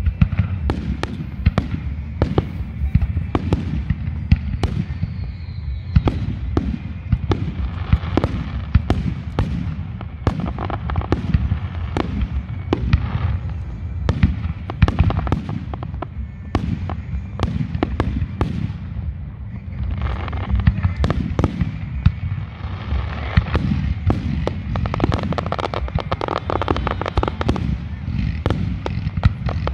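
Aerial fireworks display: a dense, continuous barrage of shell bursts and launches, several sharp bangs a second over a steady low rumble. It eases for a moment about two-thirds of the way through, then builds again.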